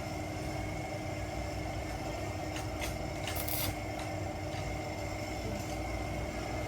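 A machine running steadily with a constant hum and low rumble, and a short hiss about three and a half seconds in.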